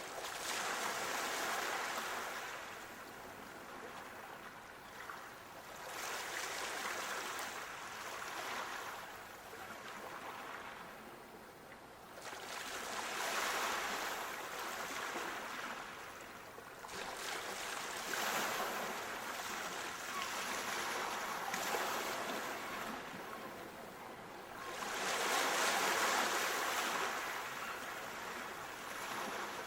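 Waves breaking and washing up a shore, the rush of water swelling and fading every five to six seconds.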